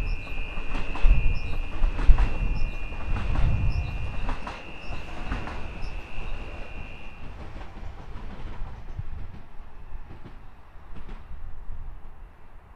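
SL X60 electric commuter train running through the station, its wheels clicking over rail joints above a deep rumble, with a steady high squeal that cuts off about seven seconds in. The sound then fades as the train draws away.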